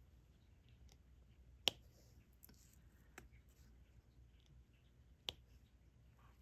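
Quiet, sharp clicks of diamond painting: the drill pen tapping small resin drills down onto the sticky canvas, two louder clicks about three and a half seconds apart with a softer one between.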